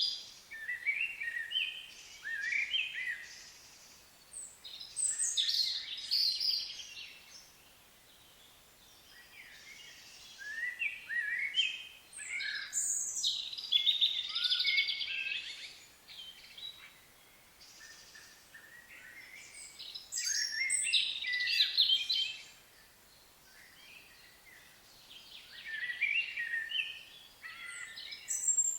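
A songbird singing: warbling, trilling phrases of a few seconds each, repeated about every seven seconds with quieter pauses between them.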